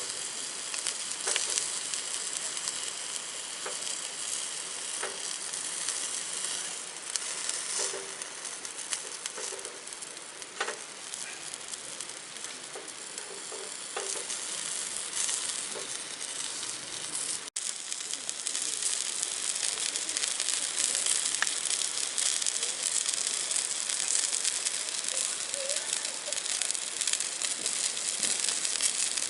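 Food frying in a pan with a steady sizzle and occasional light clicks, as from stirring or a utensil against the pan. After a brief break about two-thirds of the way through, the sizzling comes back louder.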